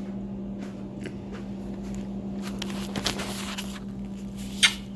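Scattered clicks and rustling handling noises over a steady low hum, with a noisier scuffle about three seconds in and one sharp click near the end.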